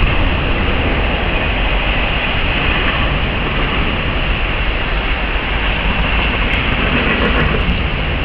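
A freight train's refrigerator cars rolling past at speed: a steady rumble and rush of steel wheels on rail.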